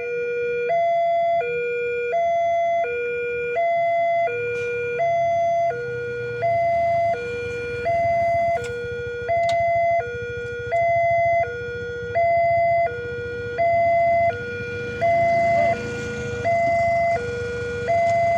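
Railway level-crossing warning alarm sounding, two tones alternating high and low, each held about 0.7 s. A low rumble swells underneath from about six seconds in.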